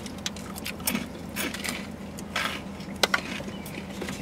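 Close-up chewing of a bagel sandwich with cream cheese and crunchy Flamin' Hot Cheetos and Takis: irregular crunches and crackling clicks, with a sharp crunch about three seconds in, over a steady low hum.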